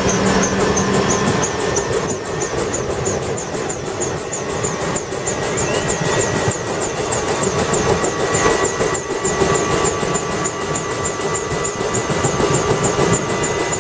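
Bell UH-1 Huey helicopter's turbine engine running during start-up: a steady rumble with a thin whine, and a fast, regular high ticking about four times a second.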